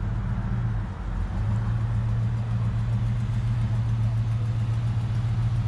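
Dodge Charger Daytona's V8 idling steadily, a low, even purr, with a short dip in level about a second in.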